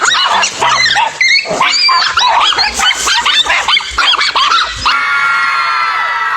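Dogs barking and yelping, many short high calls overlapping. About five seconds in this cuts off and gives way to steadier shouting voices.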